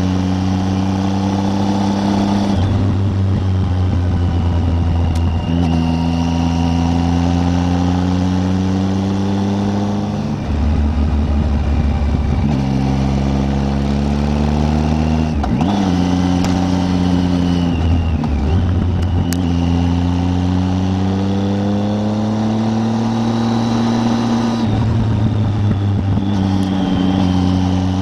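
Triumph Tiger 800's three-cylinder engine under way, its pitch climbing steadily through each gear and dropping at each gear change, several times over.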